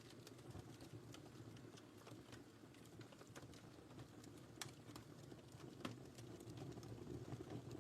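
Faint wood fire crackling in a fireplace: a soft steady rustle with scattered small pops and snaps, two of them sharper, a little past the middle.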